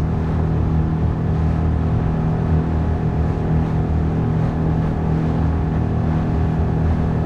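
Small boat's outboard motor running steadily at full throttle, an even drone.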